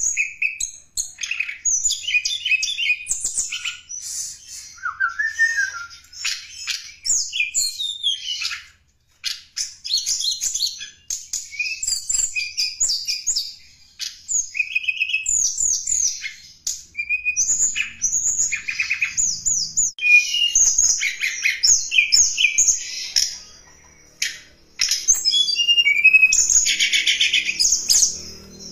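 Tledekan gunung songbird singing a lure song: a fast, varied twittering of high chirps and trills with a few short pauses.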